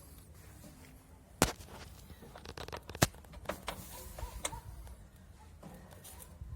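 Two sharp knocks about a second and a half apart, with lighter clicks between them, from parts and tools being handled while a washing machine is put back together.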